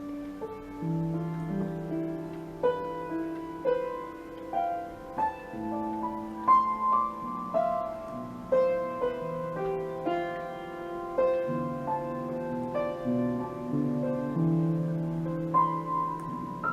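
Background piano music: a slow melody of struck notes over held lower notes.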